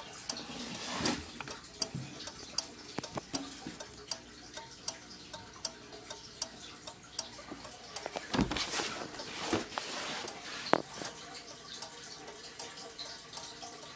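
Automotive turn signal flasher relay clicking steadily, about one click every three-quarters of a second, each click switching the flashing lamps of a railroad crossing signal. A louder thump and rustle about eight and a half seconds in.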